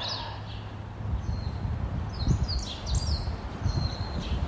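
Wild birds chirping outdoors in short series of quick, repeated high notes, over a low rumble.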